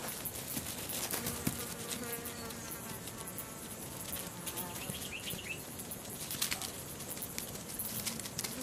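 An insect buzzing for a few seconds over a steady crackle of many small clicks and patter.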